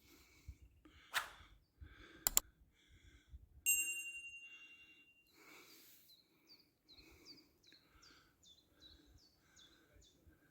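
Small songbirds singing: repeated short high notes and quick falling chirps. Sharp knocks come about one and two seconds in, and a single ringing ding starts about four seconds in and fades away.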